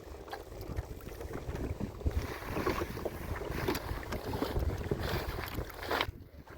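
Wind rumbling on the microphone, with scattered light knocks and a rustling noise through the middle that quietens near the end.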